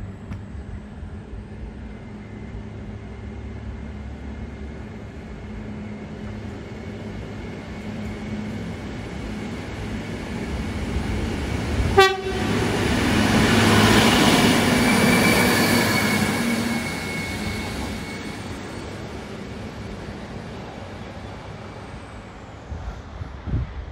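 Hunter railcar diesel multiple unit running past close by: a low diesel rumble builds as it approaches, with a short, sharp toot of the horn about halfway through. The rolling noise of the wheels peaks just after the toot and fades as the railcar moves away.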